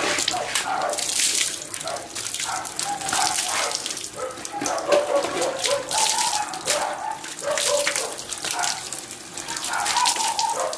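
Water running from a tap and splashing unevenly while a dog is bathed.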